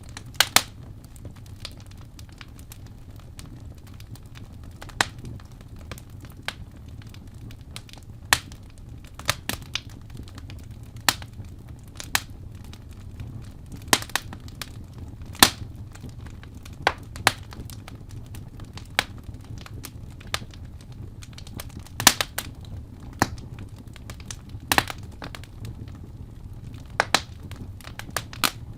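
Wood fire crackling in a fireplace, with sharp irregular pops every second or two over a steady low hum.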